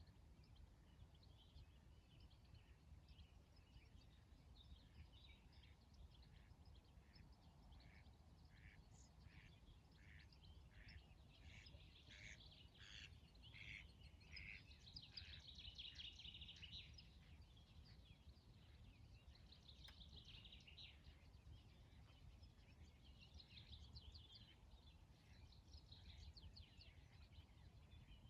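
Faint birdsong over a low steady background rumble: a run of short repeated calls about twice a second, then several bursts of busier chattering song.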